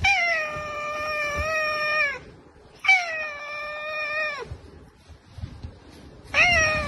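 Domestic cat meowing: two long drawn-out meows of about two seconds each, each dropping in pitch as it ends, and a third call starting near the end.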